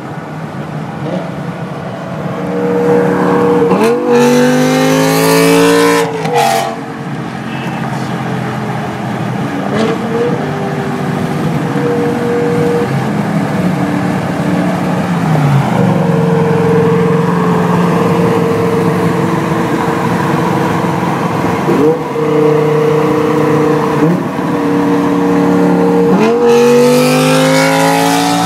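BMW E60 M5's 5.0-litre S85 V10 exhaust, fitted with Evosport headers and Meisterschaft mufflers. It revs up in rising sweeps, with brief sharp cracks about six seconds in, then runs at a long steady pitch before climbing again near the end.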